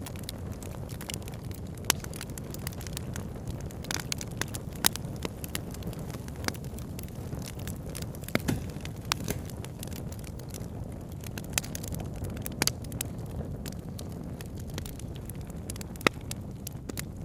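A campfire crackling, with irregular sharp pops, some louder than others, over a steady low rush of flowing river water.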